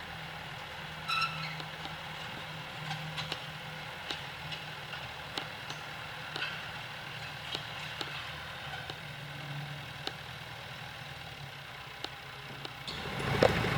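Tractor engine running steadily, with scattered light clanks and clicks, a short high-pitched squeak about a second in, and the engine growing louder near the end.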